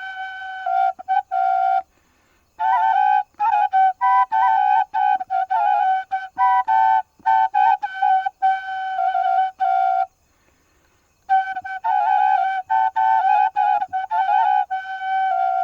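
Solo flute playing short phrases of quick stepping notes, with two brief pauses, about two seconds in and about ten seconds in.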